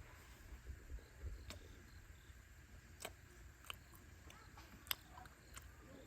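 Near silence over a low rumble, broken by a few faint, sharp clicks and taps: one about a second and a half in, then about three, three and a half and five seconds in.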